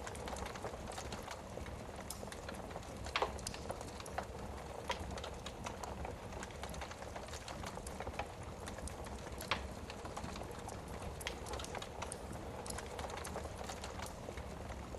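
Wood fire burning in a fireplace: a steady soft rush of flame with irregular crackles and a few sharper pops.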